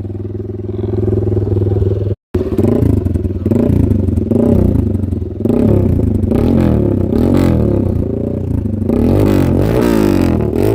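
Several motocross dirt bike engines revving while the riders wait to start, the pitch swinging up and down over and over, with overlapping revs from different bikes near the end. The sound cuts out briefly about two seconds in.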